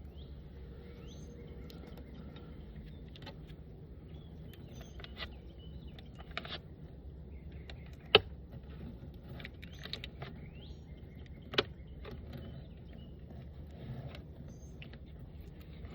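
Scattered sharp clicks and knocks of wooden hive parts and tools being handled, two of them much louder than the rest, over a steady low hum.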